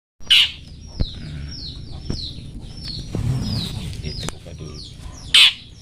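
Songbird calling in a rapid series of short falling chirps, with a loud sharp call near the start and another about five seconds in: birdsong of the kind played as masteran to tutor a long-tailed shrike, a few faint clicks over a low hum.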